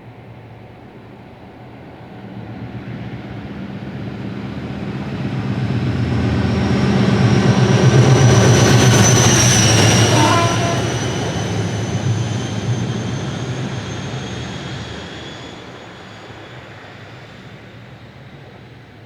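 Class 56 diesel-electric locomotive 56049, coupled with Class 37 locomotive 37405, passing under power with its diesel engine running loud. The sound builds, is loudest about eight to ten seconds in, then fades away, with a high whine that drops in pitch as the locomotives go by.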